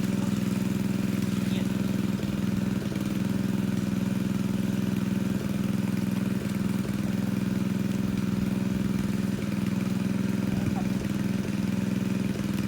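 Engine of a pond-draining water pump running steadily at a constant speed, an even hum.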